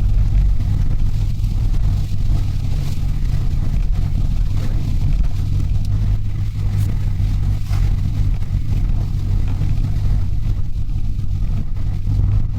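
Mitsubishi Delica van running on the road, heard from inside the cabin as a steady low rumble of engine and road noise.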